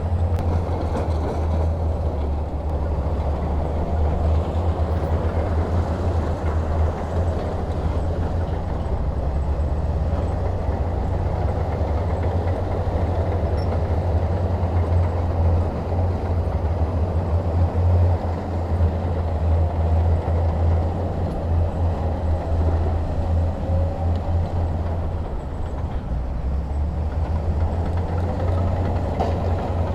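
Heavy diesel machinery running steadily under load: a deep, continuous engine rumble with no breaks.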